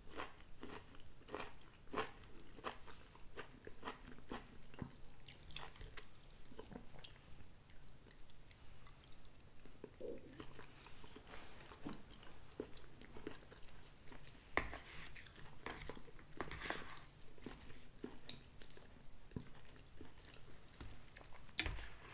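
A man chewing mouthfuls of a TV dinner with his mouth closed: a steady run of small wet mouth clicks and crunches, several a second, with a few louder clicks and scrapes about two-thirds of the way through and near the end.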